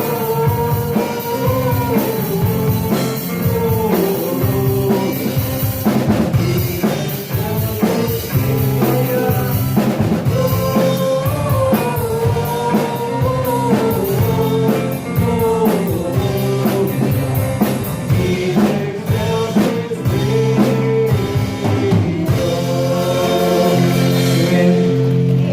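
Live worship band music with drum kit, guitar and bass under a steady melody line. The drums drop away near the end.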